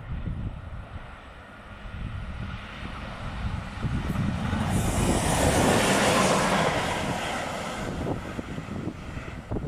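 A locomotive running light (without a train) passes by: its rumble and wheel noise swell to a peak about five to seven seconds in, then fade away.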